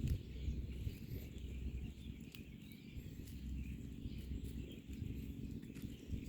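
Outdoor ambience with faint, scattered bird chirps over a steady low rumble, with a few brief clicks.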